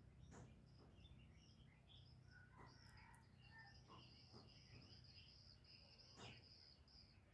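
Near silence: faint high chirps and trills of small birds over a low background hum, with no dove cooing.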